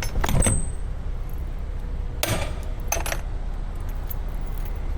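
Low steady rumble of a semi truck's idling diesel engine heard from inside the cab, with three short metallic clinks and rattles: one near the start, one about two seconds in and one at three seconds.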